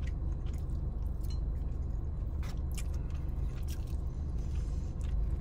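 Close-up mouth sounds of a man chewing a forkful of stir-fried chicken, green beans and rice, with many small wet clicks scattered through, over a steady low rumble in the car cabin.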